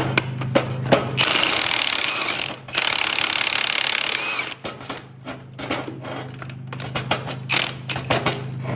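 Power wrench, most likely an impact wrench, run in two bursts of about a second and a half each, spinning out old rusty engine bolts. Scattered metallic clinks and clanks of bolts and tools being handled follow.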